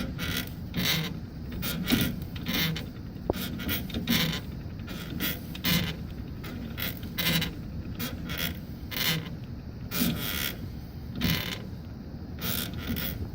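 Newly installed bearing making a repeated creaking scrape, about once or twice a second at an uneven rhythm, over a steady low rumble: the noise persists even with the new bearing fitted.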